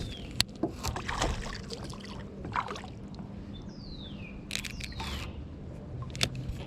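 Water sloshing and trickling at a kayak as a bass is fought and landed on a jig, with scattered sharp clicks and knocks. A few short falling whistles sound, the clearest about four seconds in.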